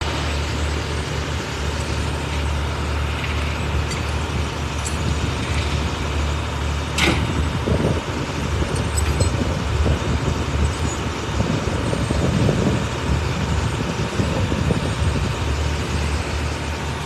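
Heavy truck engine idling steadily, with one short, sharp squeal falling in pitch about seven seconds in.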